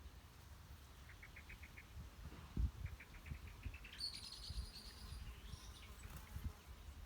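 Small birds calling: two runs of quick, evenly spaced chip notes, then a higher, faster twitter about four seconds in. A low thump about two and a half seconds in is the loudest sound, over a faint low rumble.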